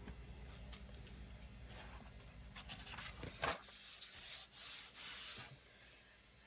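Pages of a paperback coloring book being turned: paper rustling and rubbing in a cluster of sweeps, with one sharp tap about halfway through.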